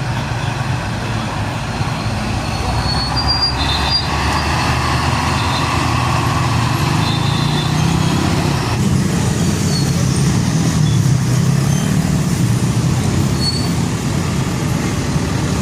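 Heavy diesel truck engine running in road traffic, growing slightly louder over the first few seconds, with a few brief high squeaks.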